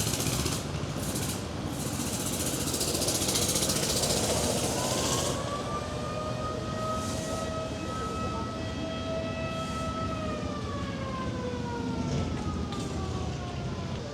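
A siren winding up to a steady wail, holding, then slowly winding down, over a rushing background noise that is loudest in the first few seconds.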